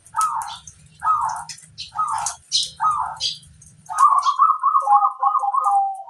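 Zebra dove (perkutut) cooing: four short coo notes about a second apart, then a rapid run of repeated notes that ends on a held lower note.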